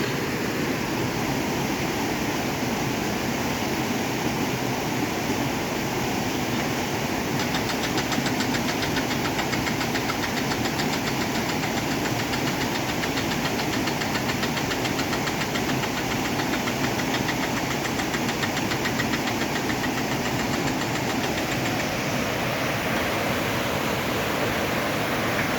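A steady rush of river water flowing over stones. From about a quarter of the way in until near the end, a rapid, even pulsing runs through it.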